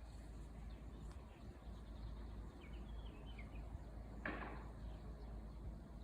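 Faint outdoor background with a few soft, high bird chirps between about two and a half and three and a half seconds in, and a short rustling burst a little after four seconds.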